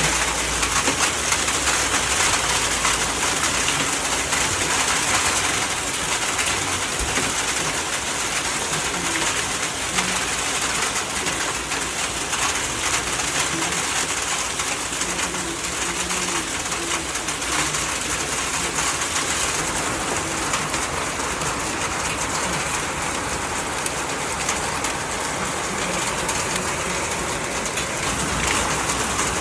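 Hail and rain falling heavily in a dense, steady hiss of countless small impacts.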